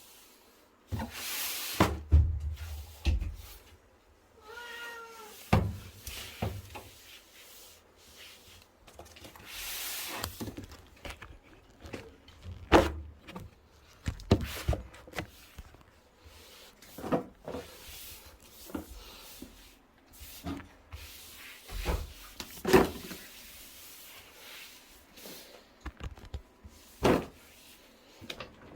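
A cat meows once, briefly, about five seconds in. Around it are scattered knocks, thumps and rustles of things being handled, the loudest of them sharper and louder than the meow.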